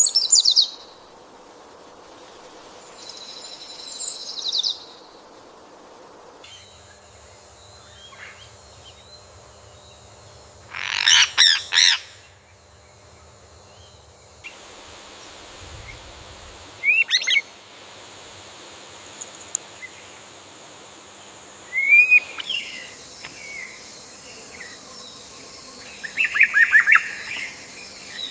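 Wild birds calling and chirping in short separate bouts, the loudest a burst of calls about eleven seconds in, over quiet outdoor ambience. The background changes abruptly a few times, as with spliced nature recordings.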